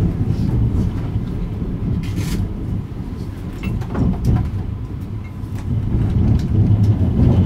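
Kintetsu 80000-series Hinotori electric train running, heard from on board: a steady low rumble of wheels and motors with a few sharp clicks from the track. It eases a little in the middle and grows louder near the end.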